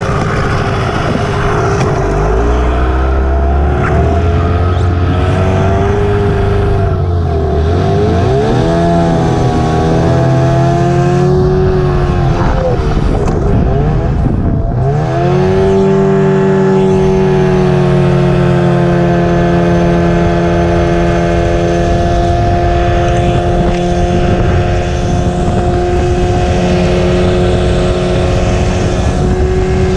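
Racing boat engine running hard at high revs. Its pitch drops and climbs back several times in the first half, with one deep drop about halfway through, then holds steady and high, dipping once more near the end.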